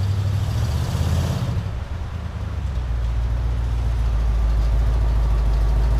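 Vehicle engine running with a steady low rumble, swelling with added hiss for the first second or so, then settling to an even drone.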